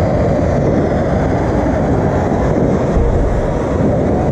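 Ground fountain fireworks spewing sparks, giving a loud, steady rushing noise.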